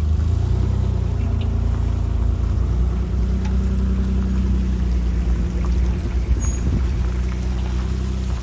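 Boat motor running steadily at cruising speed, with a steady rushing hiss of water and wind over it.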